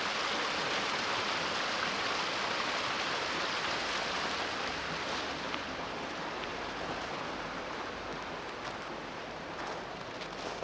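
Steady rush of running water, like a stream, fading gradually over the second half, with a few faint clicks near the end.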